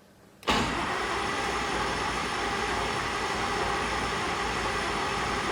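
Rotec R2800 seven-cylinder radial engine being turned over on its electric starter without firing, cranking to build oil pressure on its first start. The steady whirring starts suddenly about half a second in and holds even.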